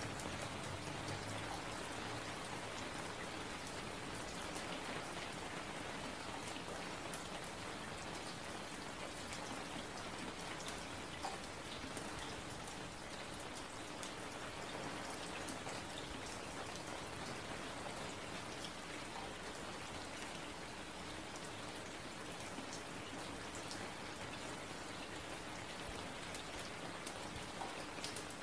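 Steady, even hiss dotted with many small ticks, a rain-like patter.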